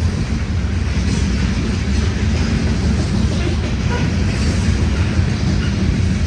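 CN freight train passing with a steady, loud low rumble.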